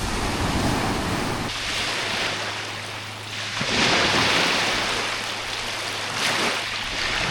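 Sea waves washing onto a beach, the surf swelling twice, about a second and a half in and again about three and a half seconds in.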